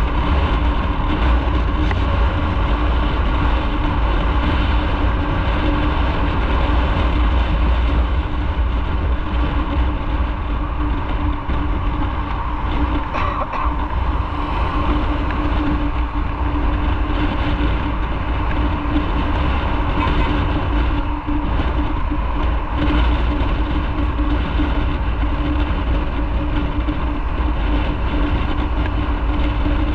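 Motorcycle running steadily at cruising speed, a constant low engine rumble and hum mixed with wind and road noise.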